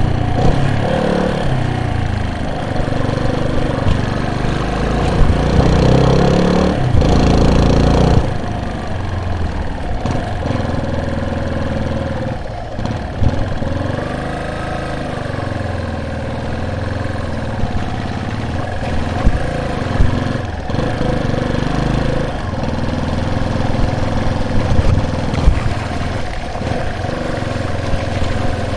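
A vehicle's engine running on the move, its pitch rising and falling as the speed changes, louder for the first several seconds. Scattered sharp knocks are heard over it.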